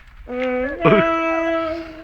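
A man singing long, wailing held notes of a Kurdish folk song. He steps up to a higher held note about a second in.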